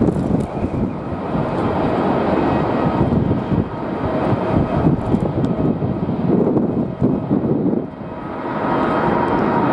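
Jet airliner engine noise with a faint steady whine, mixed with strong gusty wind buffeting the microphone.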